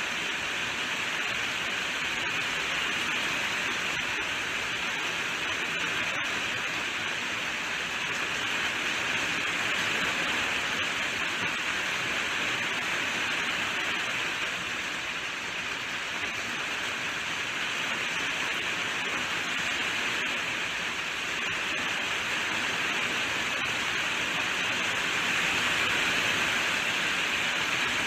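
Steady rainfall, an even hiss of falling rain with no distinct drops or thunder.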